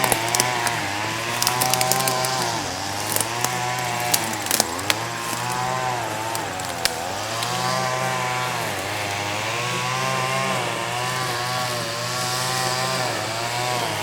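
A small engine, like a chainsaw's, running with its pitch rising and falling every second or two as the throttle is worked. In the first few seconds it is mixed with many sharp snaps and crackles, like brush and twigs breaking.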